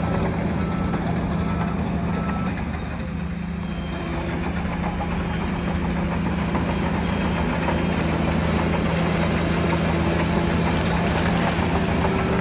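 Heavy diesel engine of earthmoving machinery running steadily. A reversing alarm beeps at an even pace for the first second or so, and a lower-pitched reversing beeper sounds from about four seconds in.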